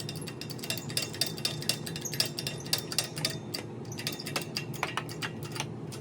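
Steel sheet being lightly pressed into a 3D-printed mold: rapid, irregular metallic clicks and ticks as the panel and mold take the load, over a steady low hum.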